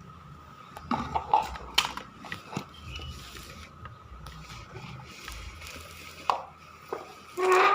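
Battery-powered robot cat toy running, its small geared motor whining steadily under scattered plastic clicks and knocks. Near the end comes a short loud electronic meow from the toy.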